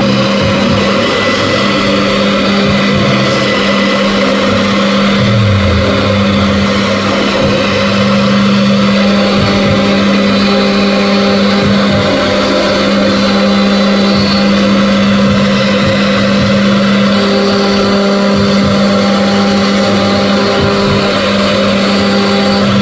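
CNC machine running: a steady hum with higher whining tones that start and stop every second or two as it works.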